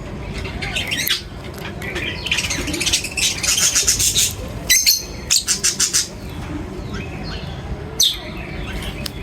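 Several birds chirping and squawking with harsh calls, busiest in the middle, where one bird gives a quick run of about five calls, and a single call near the end.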